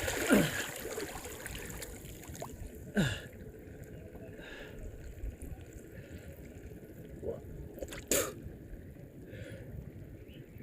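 Shallow water splashing briefly a few times, with a sharp splash about three seconds in and another about eight seconds in, over a faint steady hiss.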